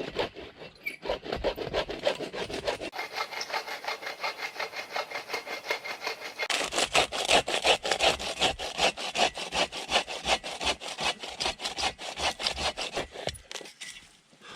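Hand saw cutting into the trunk of a large dead spruce with steady back-and-forth strokes. It grows louder about halfway through, and the sawing stops shortly before the end.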